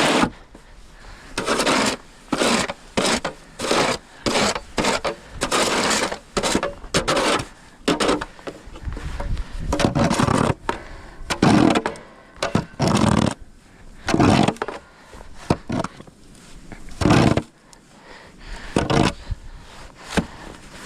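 A run of short, irregular scraping strokes, each under a second, with brief gaps between them.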